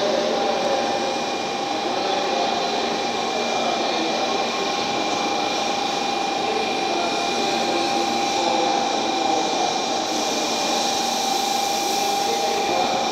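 N700S Shinkansen 16-car trainset running past, a steady rushing running noise with a constant high whine held throughout.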